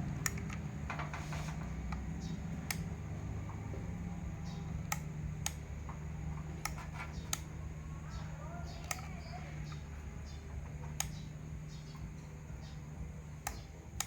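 Light clicks and taps of small parts and tools being handled on a repair bench, spread irregularly over a steady low hum.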